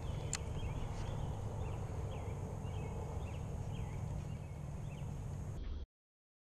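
A bird calling a run of short chirping notes over a steady low rumble, with one sharp click just after the start; the sound cuts out abruptly near the end.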